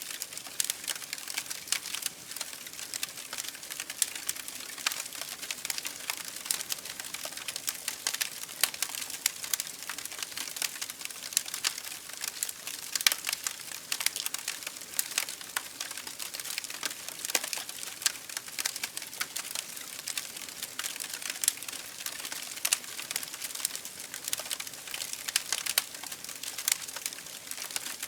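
Campfire burning with dense, irregular crackles and pops from the burning wood over a steady hiss.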